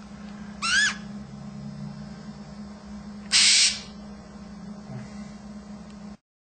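Blue and gold macaw calls over a steady low hum. Just under a second in comes a short rising call. About three seconds in comes a louder, harsh screech lasting about half a second.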